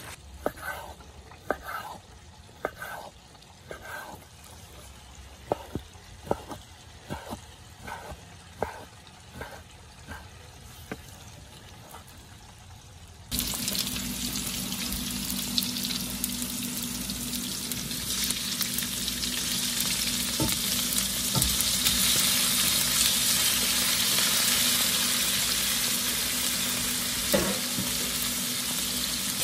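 A quiet stretch with a string of light knocks, roughly one or two a second, then, about 13 seconds in, food frying in hot oil starts abruptly: a steady loud sizzle that continues to the end.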